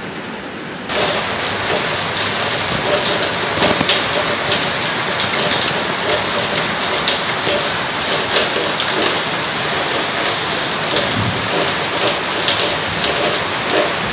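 Heavy rain falling steadily, with many sharp individual drop impacts heard through the hiss. The rain gets suddenly louder about a second in.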